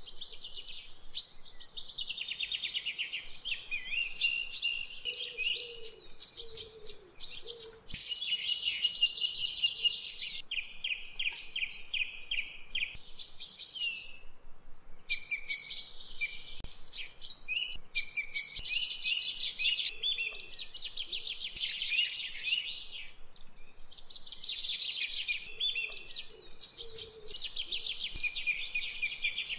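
Songbirds singing almost without a break: fast trills and runs of quick repeated chirps, one phrase after another.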